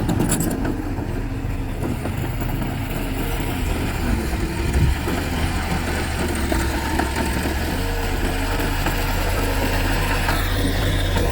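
Heavy earthmoving machine's diesel engine running steadily at a low, even speed.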